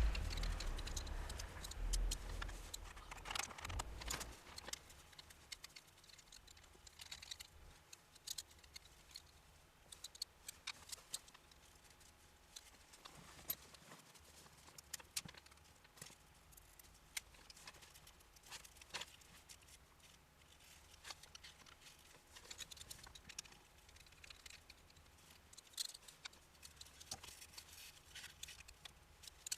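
Scattered light clicks and taps of hands and small tools working on parts, with a louder stretch of handling and bumping in the first few seconds.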